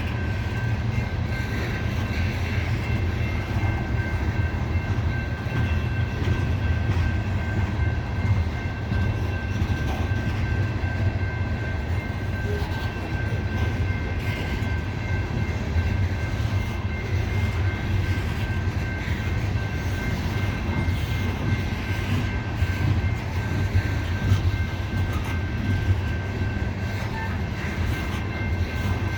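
Loaded coal hopper cars rolling slowly past on a grade: a steady low rumble of steel wheels on rail, with a faint, steady high-pitched whine over it.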